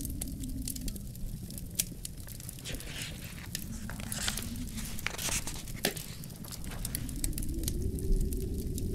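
Wood fire crackling in a fireplace, with frequent sharp pops and short hissing flares, over a steady low rumble of wind that swells near the end.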